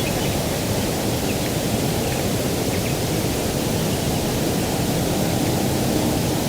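Steady rushing noise of a breeze over open rural ground, even in level throughout, with a faint bird chirp and a faint low hum coming in near the end.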